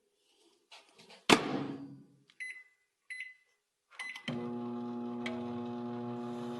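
Microwave oven door shut with a knock, a few short keypad beeps as it is set, then the oven starting and running with a steady hum.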